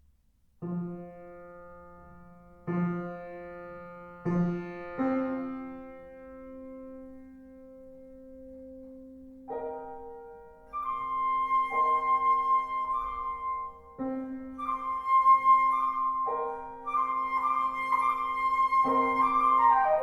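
Transverse flute and piano playing a classical duo. It opens with a few spaced piano chords that ring on. About halfway in, the flute enters over the piano with short ornamented figures imitating birdsong, and a quick downward run comes near the end.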